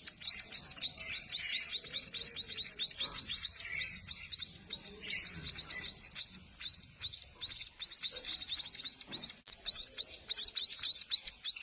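A group of fledgling munias giving rapid, high-pitched begging chirps, several calls a second, overlapping as they are hand-fed.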